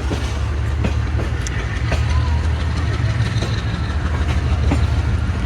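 Passenger train moving off just after departure: a steady low rumble with scattered clicks and knocks from the wheels on the rails.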